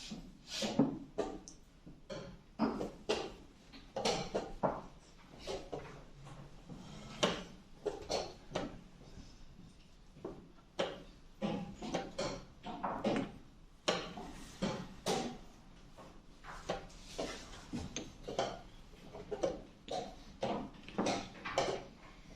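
Wooden chess pieces set down on the board and the chess clock tapped in quick, irregular alternation during a blitz game, a sharp knock every half second or so.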